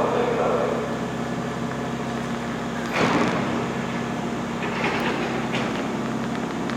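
Steady hum of a stationary Hankyu electric train at the platform, with a sharp knock about three seconds in and lighter clicks later.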